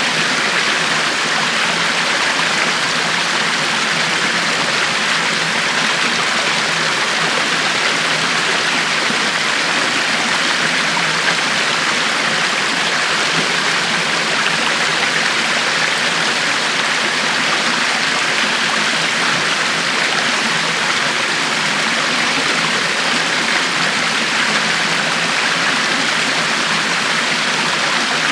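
River water flowing steadily over rocks, a constant rushing with a fine splashing texture.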